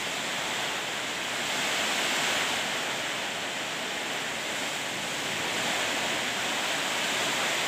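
Heavy rain falling in a strong wind: a steady rushing hiss that swells in gusts about two seconds in and again near the end.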